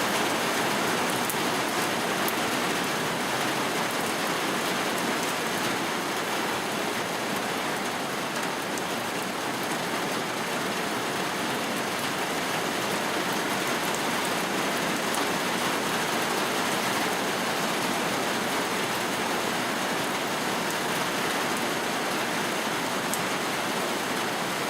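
Steady rain falling, a continuous even hiss of drops with faint scattered patters on a surface.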